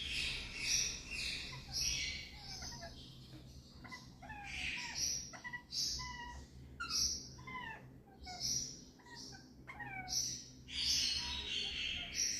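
Indian ringneck parakeet chicks calling: harsh, raspy squawks about once a second, mixed with short chirps that slide in pitch.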